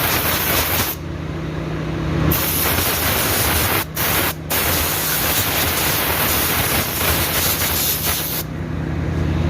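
Compressed-air blowgun hissing in long blasts while blowing out a truck's air filter element. The air cuts off for about a second early, twice very briefly near the middle, and again near the end, with a steady low hum underneath.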